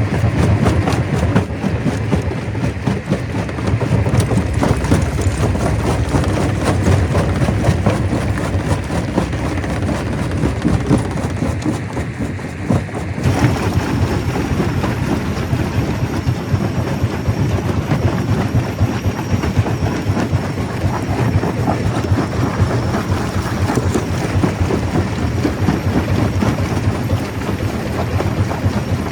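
Stone crusher at work, a dense continuous clatter of rocks knocking and grinding over a low mechanical rumble. The sound changes abruptly about halfway through.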